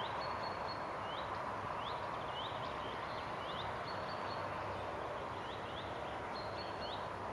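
Small songbirds calling: repeated short, high, rising chirps and a few brief level whistles, scattered irregularly over a steady background hiss.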